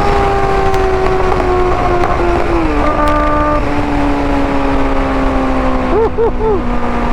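A 2024 Kawasaki ZX-6R's inline-four runs at high revs through an IX Race aftermarket exhaust while the bike is ridden. Its pitch falls slowly, with a short step about three seconds in and a few quick rises and falls in pitch around six seconds in. Wind noise runs underneath.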